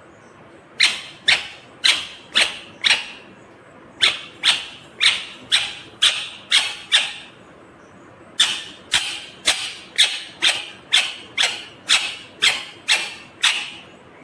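Indian ringneck parakeet calling in three runs of short, shrill repeated calls, about two a second, with brief pauses between the runs.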